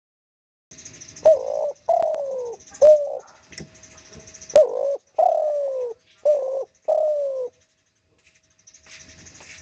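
Spotted dove cooing in two phrases of low coo notes, short notes mixed with longer ones that fall in pitch, with a pause of about two seconds between the phrases.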